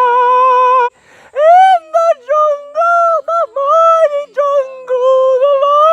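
One voice singing loud, high, wordless falsetto notes, held and stepping up and down in pitch with short breaks between them.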